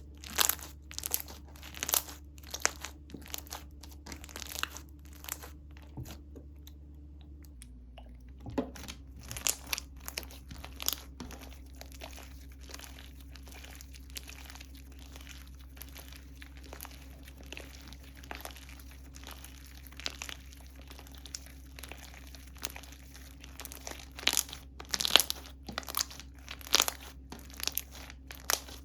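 Slime being squeezed, pressed and stretched by hand, giving many crackling clicks and pops. The pops thin out briefly about six to eight seconds in and come in a louder run near the end.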